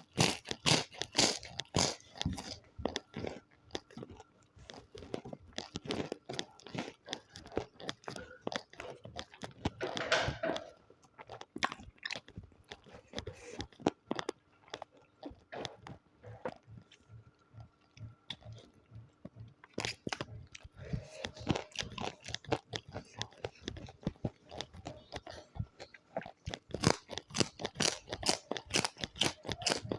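Close-miked chewing with many sharp, crackling crunches of food in the mouth, thickest at the start and again near the end.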